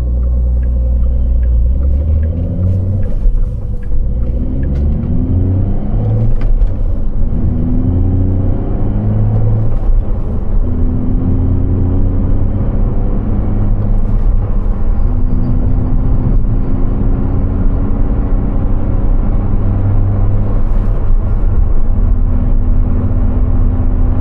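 Porsche 911 Carrera T (992.2) twin-turbo flat-six, heard from inside the cabin while driving. Its note climbs and drops back in several quick steps, upshifts of the manual gearbox, over the first ten seconds or so, then holds steadier for longer stretches.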